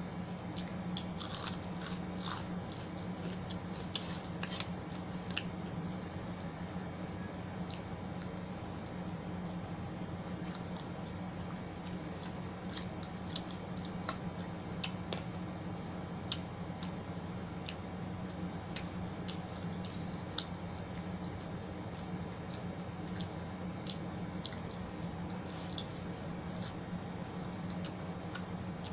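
Close-miked eating sounds: chewing and squishy, crunchy bites, with many short clicks scattered through, over a steady low hum.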